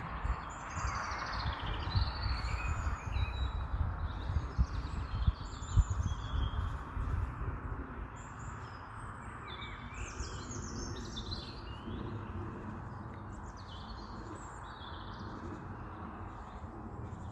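Several songbirds chirping and singing over a steady outdoor background hiss, with irregular low rumbling and thumps in the first half.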